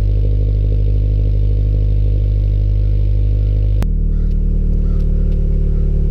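2017 Subaru BRZ's 2.0-litre flat-four idling through a Lachute Performance cat-back exhaust during a cold start, a steady low exhaust note. About four seconds in there is a sharp click and the idle steps down to a lower, slightly pulsing note.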